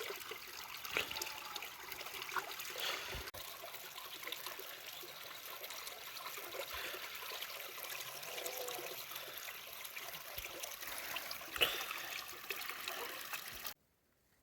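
Running water trickling steadily, with a few faint knocks, cutting off abruptly near the end.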